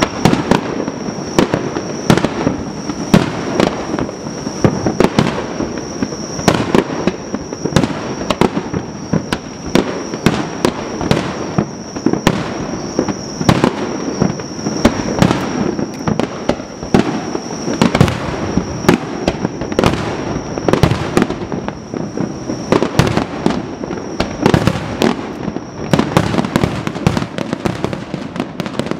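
Fireworks display: aerial shells bursting in quick succession, sharp reports coming one to several a second over a continuous rumbling echo. A thin, steady high-pitched tone runs underneath and stops about 26 seconds in.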